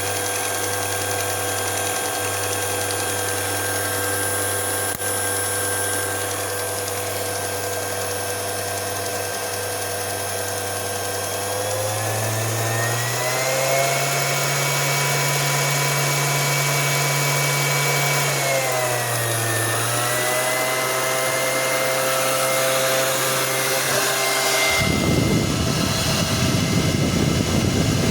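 Keystone CC-8 8mm projector running, its brush motor and film mechanism giving a steady hum and whine. About twelve seconds in the whine rises in pitch as the motor speeds up, dips briefly and rises again. Near the end a louder rushing noise joins in.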